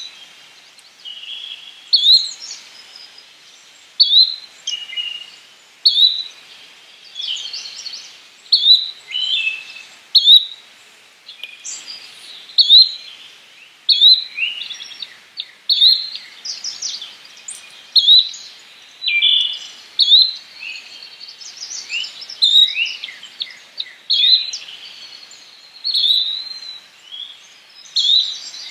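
Yellow-bellied flycatcher calling, a short sharp note repeated about every two seconds, with other birds chirping more softly in between.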